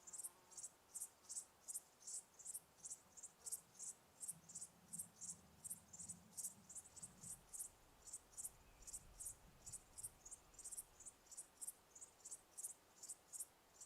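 Crickets chirping faintly in a steady, even rhythm: short, high chirps, about three or four a second.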